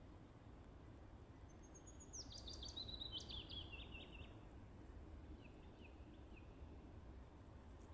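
A songbird singing faintly: one song phrase of quick notes falling in pitch, starting about a second and a half in and lasting about three seconds, then a few fainter short notes. A low steady rumble of background noise lies underneath.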